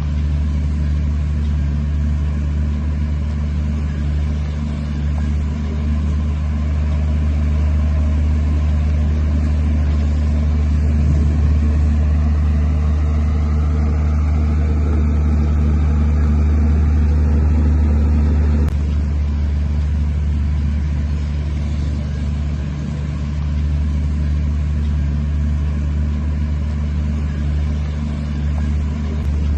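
Heavy diesel engine of earthmoving equipment running steadily with a deep drone. It works harder and grows louder for several seconds past the middle, then drops suddenly about two-thirds of the way through.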